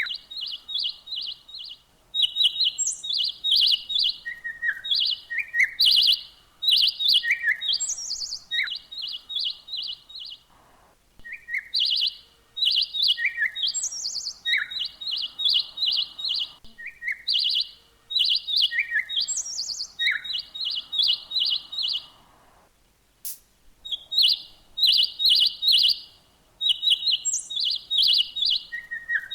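Songbird chirping: quick runs of short, high chirps with a few lower falling notes, in bouts every few seconds with brief pauses.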